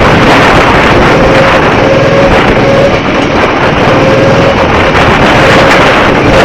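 Go-kart running on track, its motor a faint on-and-off whine under loud, steady wind noise on the microphone.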